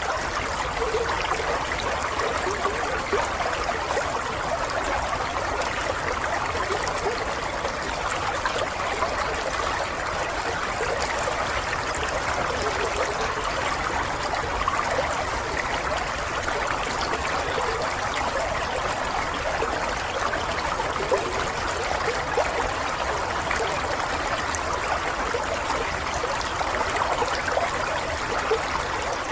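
Running water, flowing steadily in a continuous trickle like a small stream.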